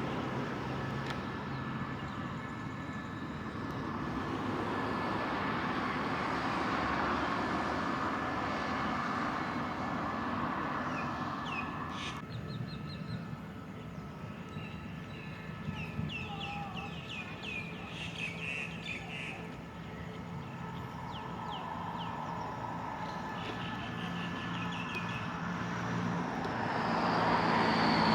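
Diesel locomotive engine running with a steady low hum, while birds chirp in the middle stretch; the engine sound grows louder near the end.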